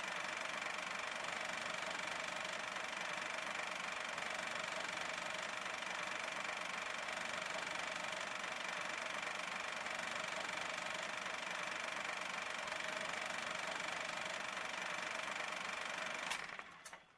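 Steady ambient drone: an even hiss with two constant whining tones, one low and one high, that cuts off with a click near the end.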